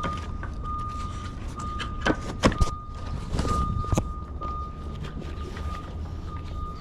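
Metal tie-down hardware on a flatbed clanking and clicking as a strap is loosened: a few sharp clicks about two seconds in and another near four seconds. Under them runs a low steady rumble, and a thin high tone comes and goes.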